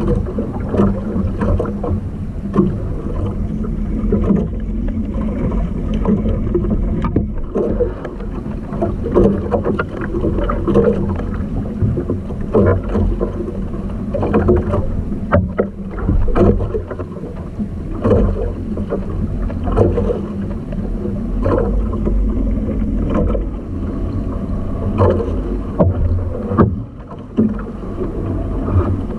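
Small outrigger canoe on choppy sea: water sloshing and slapping against the hull, with wind buffeting the microphone and irregular knocks as the fisherman shifts about in the boat.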